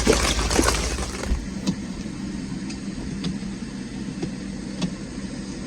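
A steady, low engine-like hum, heavier for the first second, with a few faint, scattered light taps over it.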